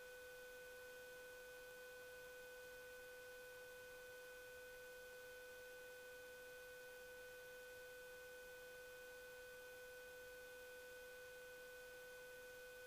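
Near silence: a faint, steady electronic tone over low hiss, with no engine or voices.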